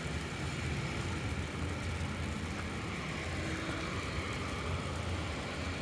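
Steady low rumble of a car engine.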